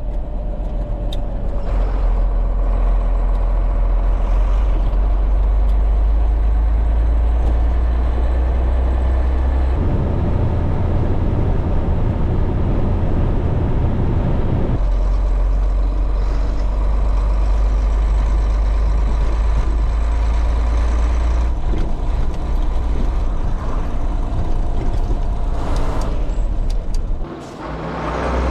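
1989 Scania 93M 280's nine-litre straight-six diesel pulling the lorry along the road, heard from inside the cab as a loud, steady drone. The engine note shifts about ten seconds in and shifts back about five seconds later, and the sound briefly drops away near the end.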